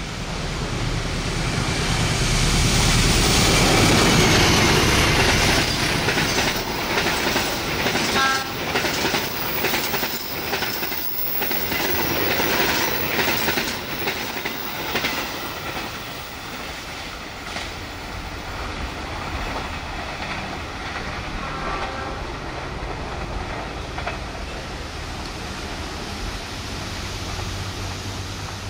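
A CC206-class diesel-electric locomotive hauling an express passenger train passes at speed. The engine is loudest about four seconds in. The coaches' wheels then clatter over rail joints for about ten seconds, and the sound fades as the train draws away.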